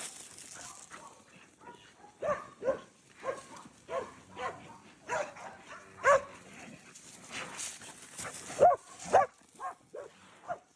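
Blue Lacy cow dog barking repeatedly in short, uneven bursts while working cattle in a pen, starting about two seconds in.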